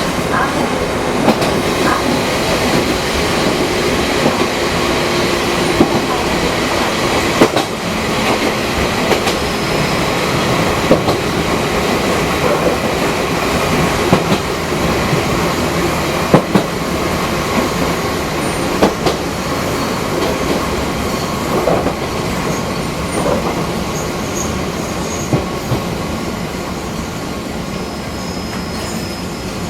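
Fukui Railway 200-series electric railcar running on the line, a steady rumble with irregular sharp clacks of the wheels over rail joints. The running noise eases a little toward the end.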